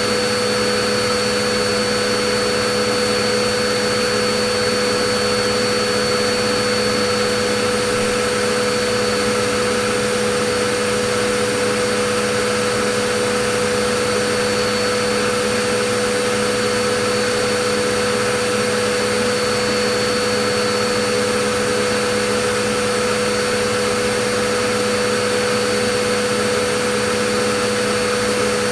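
Vacuum cleaner running continuously: a steady whooshing hiss with a constant motor whine, unchanging in pitch and level.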